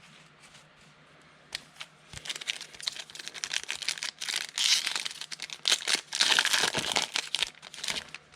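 Foil trading-card pack wrapper being torn open and crinkled, starting about a second and a half in, with irregular crackling and sharp clicks that grow louder toward the end.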